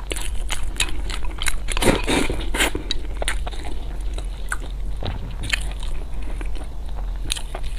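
Close-miked biting and chewing of food, with many small crunchy clicks and a busier, louder stretch of chewing about two seconds in.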